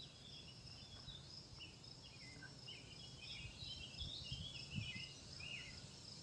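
Faint outdoor ambience: small birds twittering in quick chirps over a steady high insect trill, with low wind rumble on the microphone.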